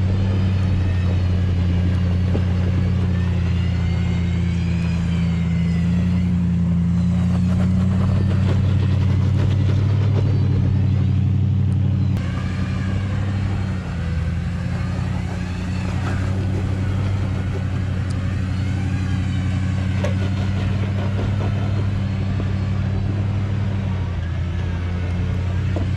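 Off-road vehicle engine running steadily and loudly, with a change in its note about halfway through.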